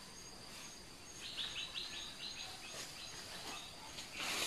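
A bird calling a quick series of about eight short, high notes, over a forest background of a thin steady high whine and faint regular ticking; a brief rustle near the end.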